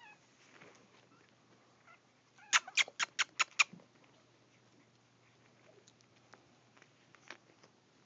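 Six sharp clicks in quick succession, about five a second, with faint high squeaks from the chihuahua puppies in the first couple of seconds.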